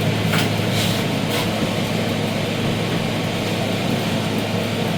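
A steady low mechanical hum from a motor or appliance, with a few faint light taps in the first second and a half.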